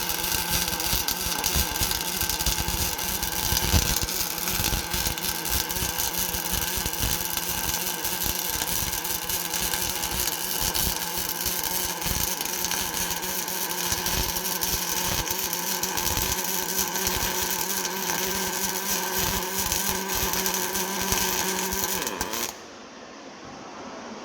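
Two welding arcs of an automatic double-torch welding machine burning on a cast iron pulley: a steady, loud sizzle with a dense irregular crackle and a machine hum. It cuts off abruptly about 22 seconds in.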